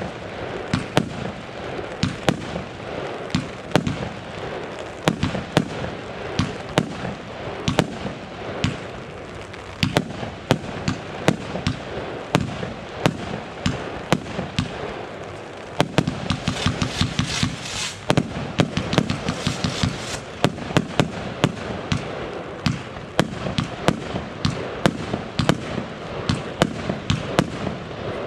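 Consumer firework battery (cake) firing a continuous series of sharp bangs and shots at irregular spacing, with a denser run of quick crackling reports about two-thirds of the way through.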